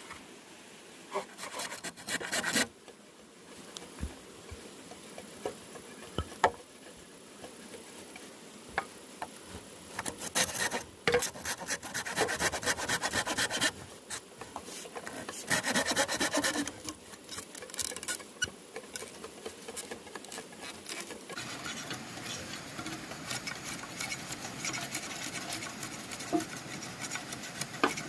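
Hand tools working bamboo: bursts of rapid scraping strokes a few seconds long, with scattered single knocks between them.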